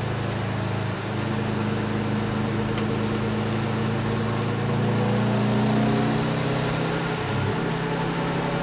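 Car engine heard from inside the cabin, running steadily on track. Its note shifts about a second in, climbs a little in the middle and drops near the end, over a steady hiss of spray and rain from the wet surface.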